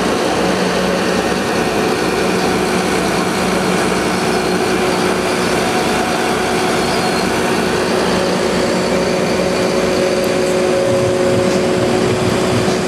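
Diesel engine of a Mercedes-Benz Atego aerial ladder truck running steadily, with a steady whine over the engine's even low pulse.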